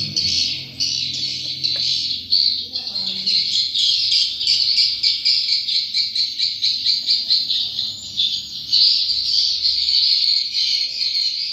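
Swiftlets chirping and twittering in a dense, rapid, high-pitched stream of overlapping calls.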